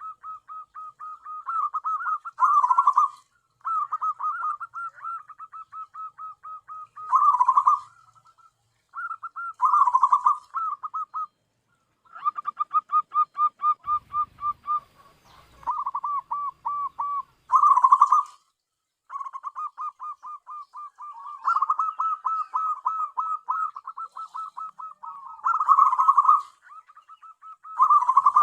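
Zebra dove (perkutut) cooing: phrases of quick, rolling coo notes repeated every few seconds with short pauses between, several ending in louder notes.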